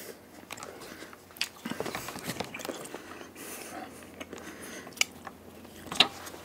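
A person chewing food close to the microphone, with small crackly mouth sounds and a couple of sharp clicks near the end.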